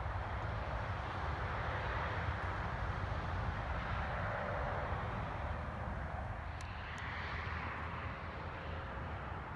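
Distant highway traffic: a steady rushing hum that swells and fades as vehicles pass, with two faint clicks about seven seconds in.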